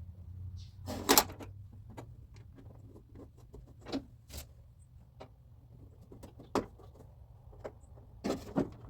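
Scattered short metallic clicks and knocks from hand work on a car door's latch and lock linkage rods. The loudest knock comes about a second in, with a small cluster near the end.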